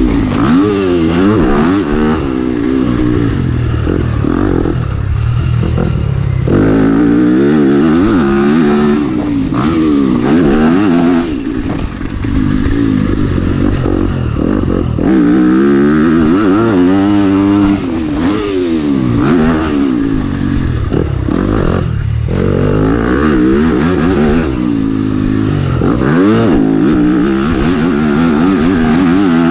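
Yamaha YZ250F motocross bike's single-cylinder four-stroke engine being ridden hard, revving up and dropping back over and over as the throttle is opened and shut and gears are changed, with several brief cuts in the engine note.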